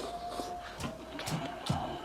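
Close-miked eating mouth sounds: a few short wet clicks and smacks of chewing.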